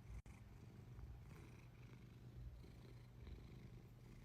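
Cat purring, a steady low rattle close to the microphone, with a momentary dropout just after the start. The purr of a contented cat being fussed over.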